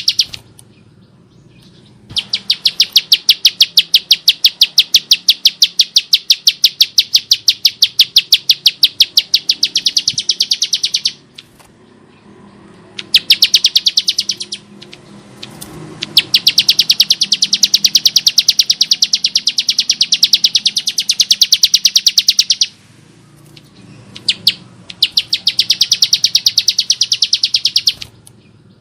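Bar-winged prinia (ciblek sawah) singing in long, fast rattling trills of sharp, evenly repeated high notes. There are four bouts with short pauses between them, the longest lasting about nine seconds.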